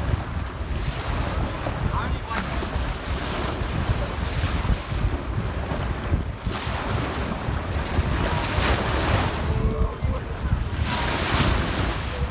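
Wind buffeting the microphone with a steady low rumble, over small sea waves washing in on the beach. The wash swells and hisses about every two to three seconds.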